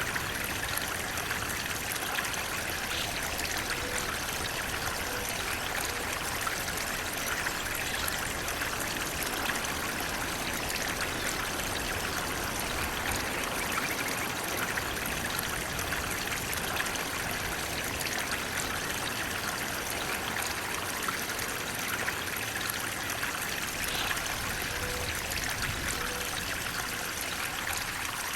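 Flowing water running steadily, an even rushing with trickling over it and no breaks.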